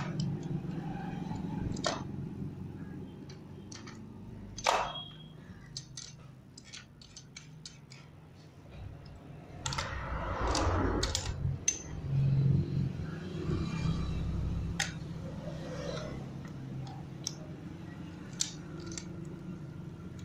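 Metal parts of a Splendor Plus motorcycle gearbox clinking and scraping as the gear shafts and selector are fitted by hand into the crankcase: scattered light clicks, with a sharper scrape about five seconds in and a longer spell of handling noise around ten to twelve seconds.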